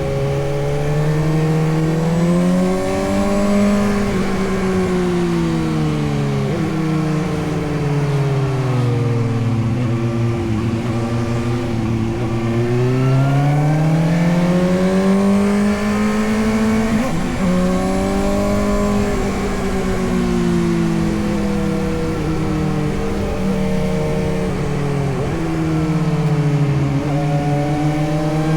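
Suzuki GSX-S750 inline-four motorcycle engine under way, its pitch climbing and falling repeatedly as the throttle opens and closes, with sudden drops in pitch at gear changes.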